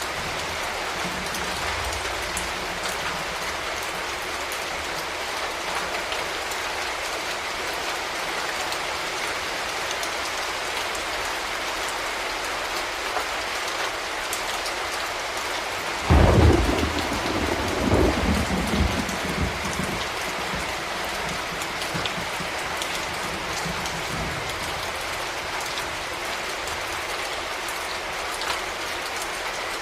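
Steady heavy rain falling, with a thunderclap about halfway through: a sudden loud crack that rolls off into a low rumble over a few seconds.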